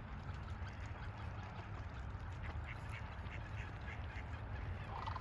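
Ducks quacking: a quick run of short quacks about halfway through and another call near the end, over a steady low wind rumble on the microphone.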